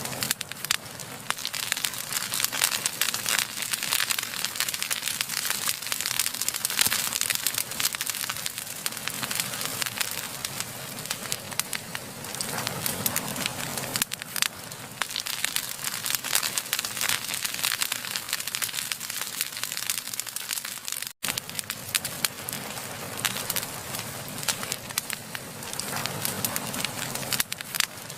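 Wood fire burning, crackling and popping continuously in dense, irregular snaps over a steady hiss, with a split-second dropout about two-thirds of the way through.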